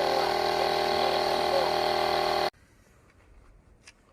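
Cordless portable air compressor running steadily while it pumps up a car tyre, then shutting off suddenly a little past halfway. After that there are only a few faint clicks of handling.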